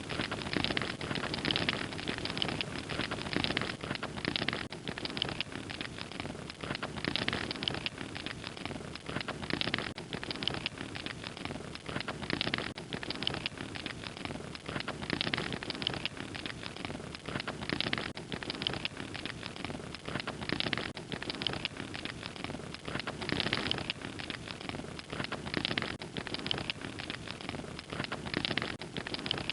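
Wood fire crackling steadily, with dense small pops and snaps swelling and easing every second or two.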